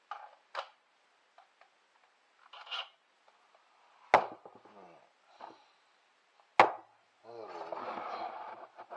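Things being handled and moved aside: light rubbing and small clicks, two sharp knocks about four and six and a half seconds in, then a scrape lasting about a second and a half near the end.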